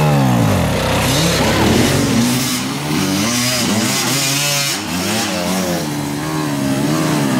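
Hard enduro dirt bike engines revving, their pitch rising and falling in repeated throttle bursts. Around the middle a second engine overlaps the first.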